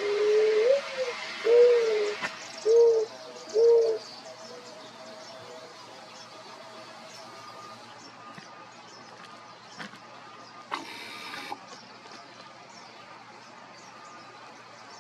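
Bird calling with four low, hooting coos over about four seconds, the first one sliding upward at its end. Quieter background follows, with a few faint clicks.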